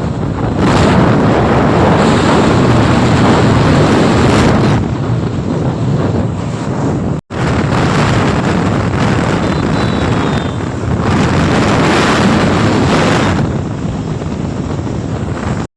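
Heavy wind noise buffeting the microphone, swelling and easing, broken by a sudden cut about seven seconds in.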